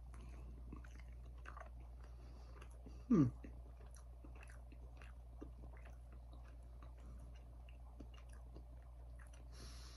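A person chewing a bite of barbecue-sauced chicken patty, with small wet mouth clicks throughout. About three seconds in, a short hum falls in pitch and is the loudest sound; near the end there is a brief hiss.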